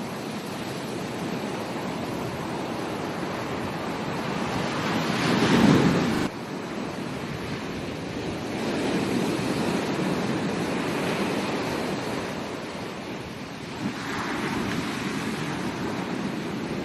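Ocean surf rushing onto a beach, with waves swelling and breaking one after another. The loudest surge comes about six seconds in and cuts off suddenly. Softer swells follow a few seconds later.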